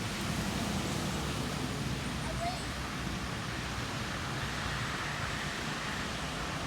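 Steady rush of tropical-storm wind, with a low, uneven rumble of wind buffeting the microphone.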